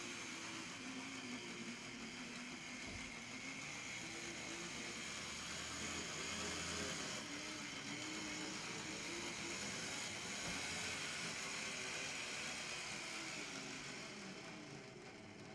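HO-scale brass three-truck Shay model locomotive running on track, its open-frame electric motor and gearing giving a steady whir with a wavering whine. The sound fades near the end.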